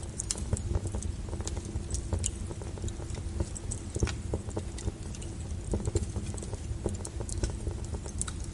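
Wood fire crackling: irregular sharp pops and snaps from the burning logs over a low, steady rumble of flame, with one louder pop about four seconds in.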